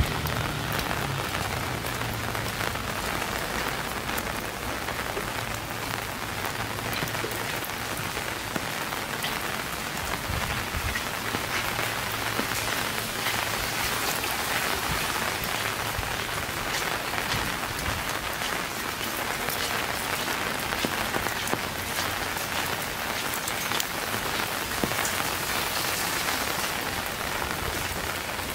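Steady rain falling, a dense hiss dotted with many separate drop ticks.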